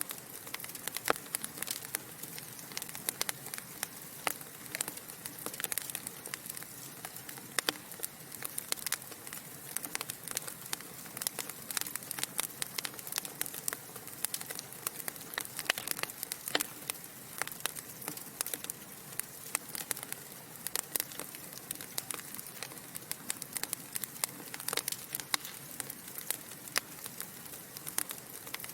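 Wood logs burning in a fireplace, crackling and popping irregularly over a soft steady hiss.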